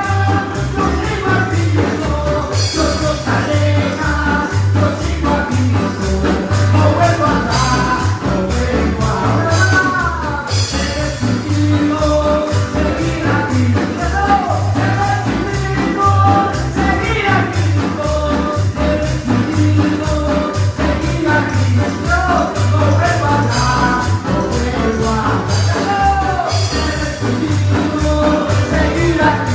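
Live Spanish-language worship music: a praise band plays a Latin-style song with a steady bass beat and tambourine while voices sing the melody.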